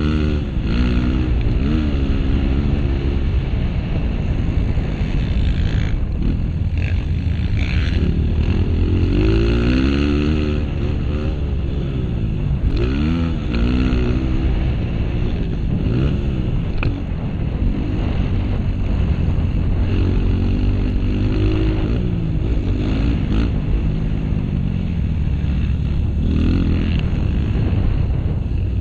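Honda CRF230's single-cylinder four-stroke engine revving up and falling back again and again as the motorcycle is ridden, the pitch rising and dropping every second or two over a heavy low rumble.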